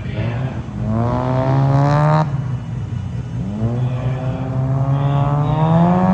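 Rotary engine of a Toyota KE70 gymkhana car accelerating hard twice: its pitch climbs for about a second and a half, cuts off sharply as the throttle lifts, then climbs again for nearly three seconds.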